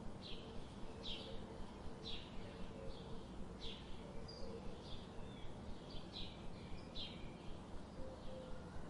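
Forest ambience: a bird repeating short, high chirps about once a second over a steady low background rumble.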